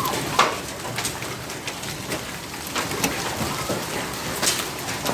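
Hailstorm: a steady patter of rain with hailstones striking, giving several sharp knocks over the hiss, the loudest about half a second in.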